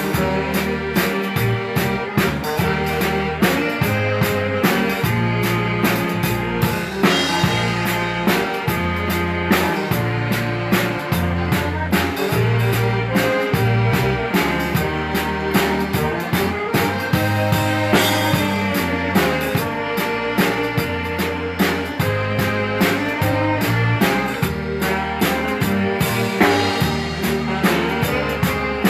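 A live Texas Czech dance band playing a number with drums, bass and melody instruments, on a steady, even beat.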